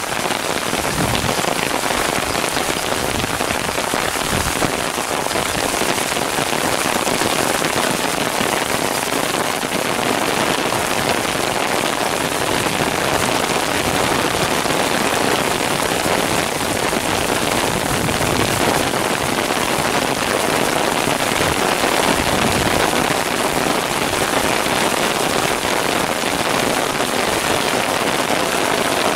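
Torrential downpour: heavy rain falling steadily, a dense, even hiss with no let-up.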